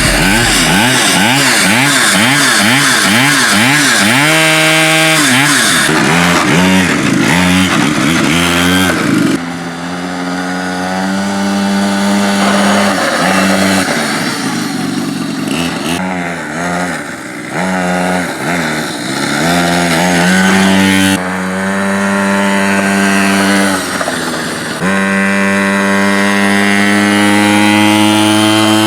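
Restored pocket bike's small engine running, revved up and down over and over, its pitch swooping quickly at first and later held steady for a few seconds at a time between drops.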